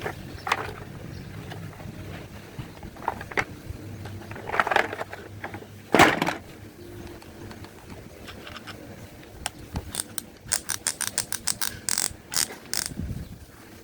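Old plastic toys being handled: scattered knocks and scraping, one louder knock near the middle, then a rapid run of sharp ratchet-like clicks, like a toy's gears or wheels turning, that ends shortly before the close.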